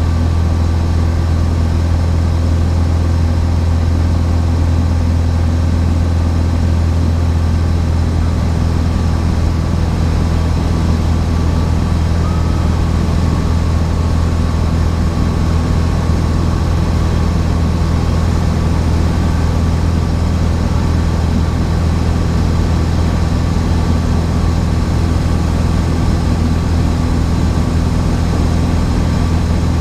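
Cessna 172's piston engine and propeller droning steadily in level flight, a constant low hum with no change in pitch or loudness.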